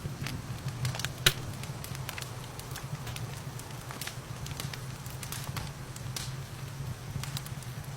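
Wood fire crackling in a fireplace: irregular small pops and snaps, with one louder pop about a second in, over a steady low rumble.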